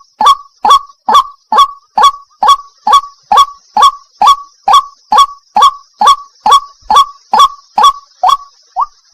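White-breasted waterhen (wak-wak) calling a steady run of short, loud 'kwak' notes, about two a second, each a quick falling call.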